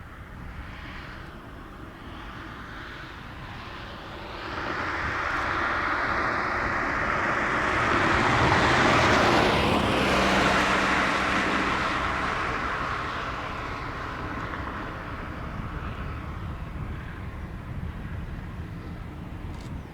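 A diesel-hauled train passing by: it grows louder from about four seconds in, is loudest near the middle with a rushing noise over a low engine note, then fades slowly away.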